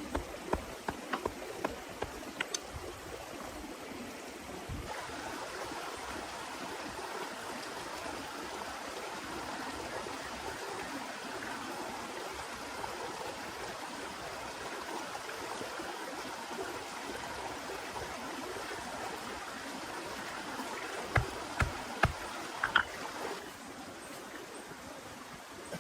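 Steady rush of running water, swelling about five seconds in and dropping back near the end, with scattered light taps at the start and a few louder knocks shortly before it falls away.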